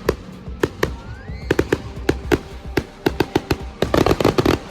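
Fireworks going off: a string of sharp bangs and crackles that comes thick and fast toward the end, with a faint rising whistle about a second and a half in.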